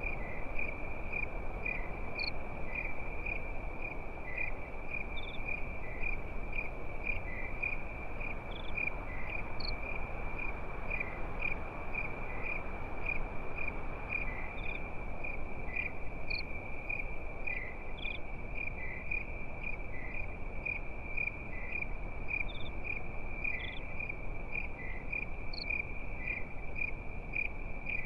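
Crickets chirping at night in a continuous, even, high trill with regular pulses, over a steady low rushing background.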